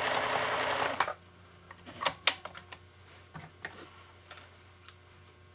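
Pfaff 1229 sewing machine running steadily while test-sewing a blind stitch, stopping suddenly about a second in. A few scattered light clicks and knocks follow.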